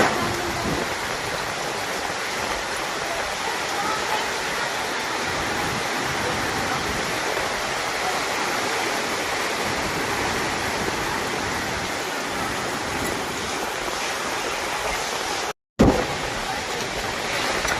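Storm downpour: heavy rain pouring steadily as a dense, even rushing noise. It cuts out abruptly for a moment near the end.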